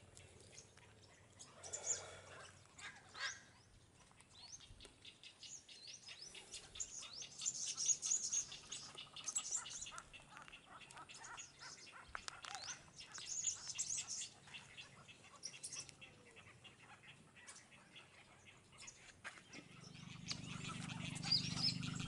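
Birds chirping and calling in bursts of high chirps, with long runs of quick ticking calls in the middle. A low steady hum swells in near the end.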